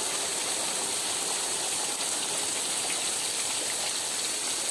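Heavy rain pouring down steadily, an even rushing hiss of falling and running water.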